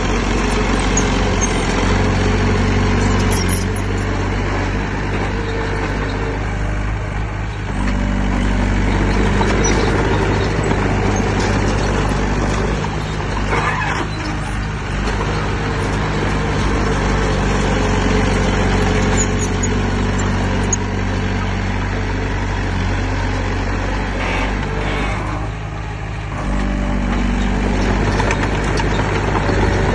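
Heavy diesel engine of earthmoving machinery running steadily. The engine note eases off briefly about a quarter of the way in and again near the end, then picks back up.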